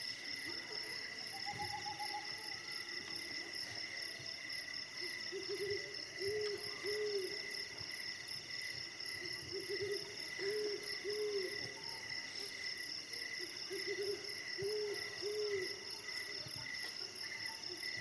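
An owl hooting in three bursts of a few hoots each, spaced about four seconds apart, over the steady chirring of crickets.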